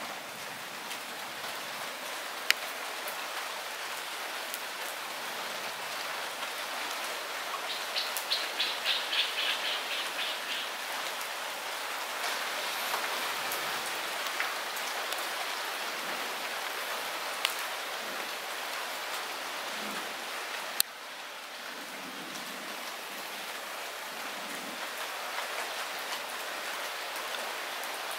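Light rain falling steadily, with a few single drops landing sharply and close now and then. About eight seconds in comes a brief rapid trill of even pulses.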